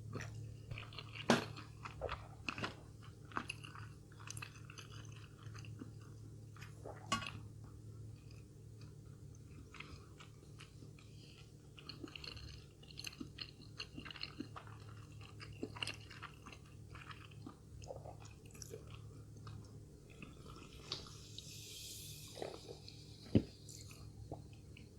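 A person chewing and biting crunchy fried snacks close to the microphone, with irregular crisp crunches and clicks throughout and a brief soft hiss a little before the end.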